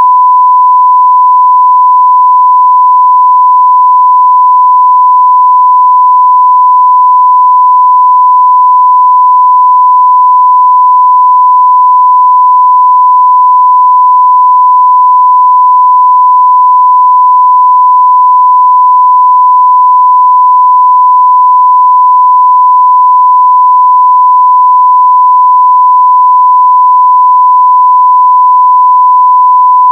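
Continuous 1 kHz sine-wave test tone at full level, a single pure pitch held perfectly steady.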